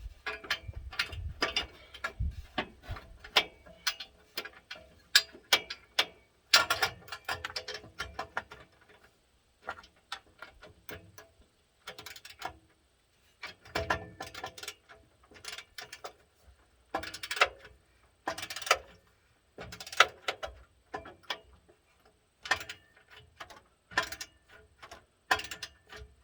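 14 mm wrench and socket clicking and clinking against metal in irregular bursts as exhaust bolts are tightened by hand.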